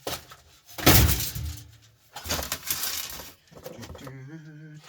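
Hard computer and electronic parts clattering and knocking as they are handled and tossed aside during a teardown: three noisy clatters, the loudest about a second in. A short low hum follows near the end.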